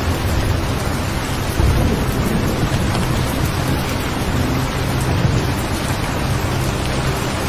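Steady rain falling, with low rolls of thunder swelling about two seconds in and again around five seconds in.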